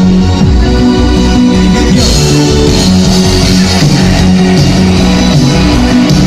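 Rock band with electric guitar playing live together with a symphony orchestra, loud and continuous, with a sharp accent about two seconds in.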